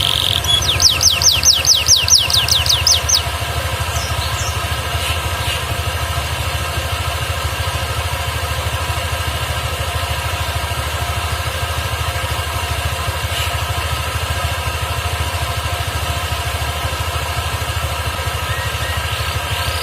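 A kenari bulu tebal canary singing a fast trill of about fourteen sweeping notes for a couple of seconds near the start, then giving a few single chirps, the bird coming back into song after a silent spell. A steady motor-like hum runs underneath.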